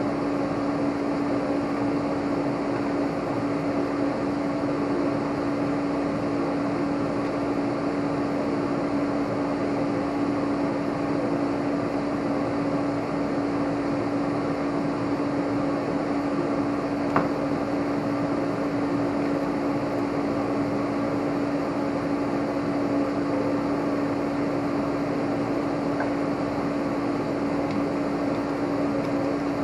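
Steady hum of a small motor, fan-like, with one constant tone throughout and a single faint click about halfway through.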